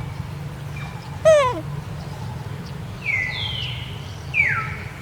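Young macaque calling: a short, loud, wavering call that falls in pitch about a second in, then higher squeals that slide downward in the middle and near the end.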